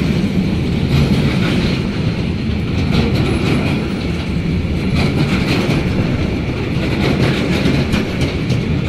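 A train passing close by with a steady loud rumble, its wheels clicking over the rail joints at uneven intervals.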